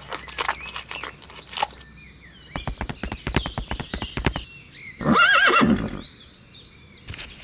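Horse hooves clip-clopping in a quick, even run of beats for about two seconds, then a horse whinnies loudly for about a second.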